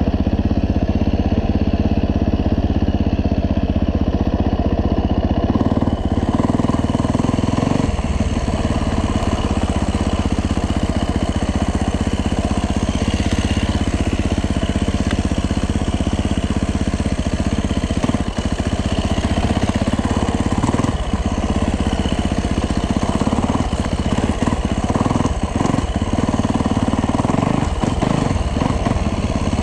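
Yamaha YZ450F four-stroke single-cylinder dirt bike engine running steadily while ridden in first gear at low revs.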